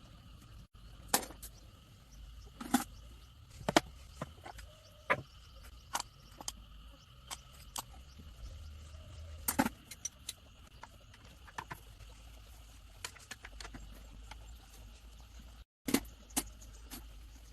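Irregular sharp metallic clicks and clinks of tools and engine parts being handled. A faint steady high-pitched buzz runs behind them.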